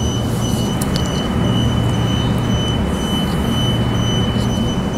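Suburban electric train door-closing warning: a steady high tone with a higher beep repeating about twice a second, over the steady hum of the train.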